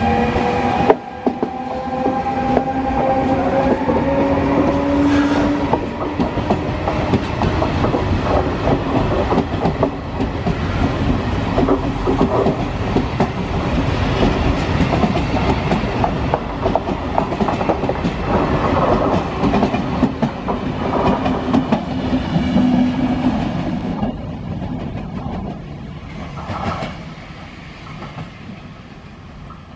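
FS E.464 electric locomotive and its passenger coaches passing close by. A whine rises slightly in pitch over the first few seconds, then the coaches' wheels rumble and clatter over the rail joints. About three-quarters of the way through the sound drops sharply and fades.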